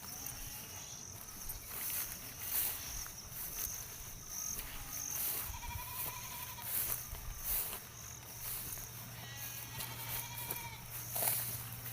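Livestock bleating a few short times, each call wavering. Under it runs a steady high insect drone, with recurring short clicks.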